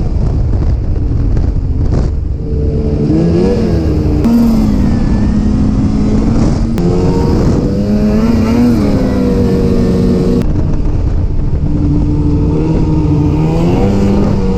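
Snowmobile engine running under way, its pitch rising and falling again and again as the throttle is opened and eased, over a steady low rumble.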